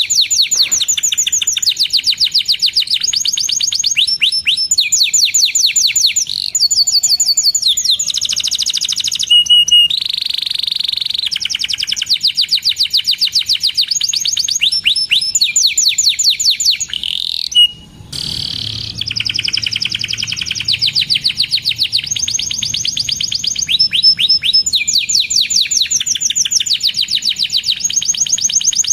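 Domestic canary in full song: a long, fast run of rapid trills, each note a quick downward sweep repeated many times a second, with brief breaks about a third of the way in and just past the middle.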